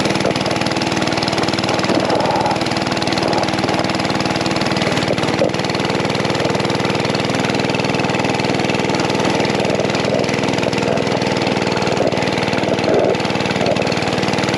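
Mini bike's small engine running at a steady idle, its pitch holding even.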